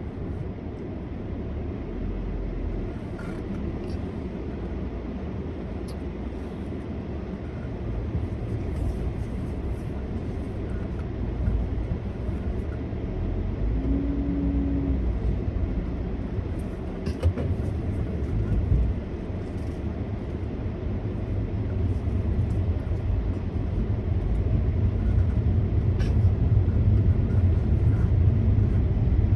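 Car driving, heard from inside the cabin: a steady rumble of engine and road noise that grows louder over the last third as the car picks up speed, with a short low hum about halfway through.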